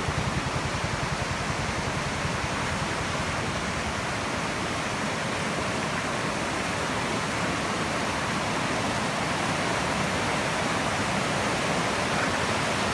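Floodwater in a swollen creek, rushing past in a steady, loud wash of noise after a heavy downpour. A low, rapid flutter runs underneath it at first and fades within the first few seconds.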